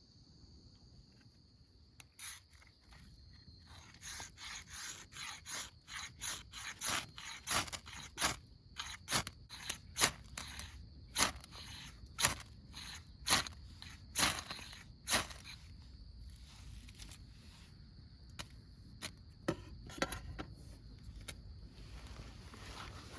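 Repeated sharp scraping strokes, about one a second, as a campfire is being prepared and lit. They thicken a few seconds in and thin out near the end. Crickets chirp steadily underneath at the start.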